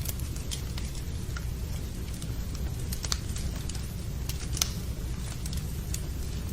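Fireplace wood fire crackling: irregular sharp pops and snaps over a steady low rumble, with rain mixed in.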